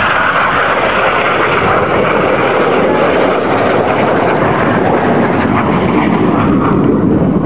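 Jet noise from BAE Hawk T1 display jets with Rolls-Royce Turbomeca Adour turbofans flying past. It is a loud, steady rush whose pitch slowly falls as they pass.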